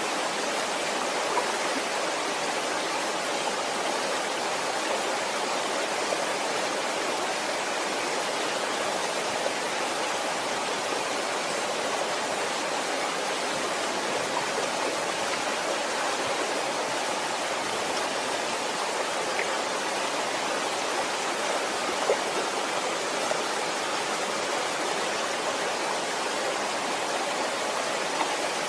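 Waterfall: steady rushing and splashing of falling water, unchanging throughout, with a few faint splash ticks.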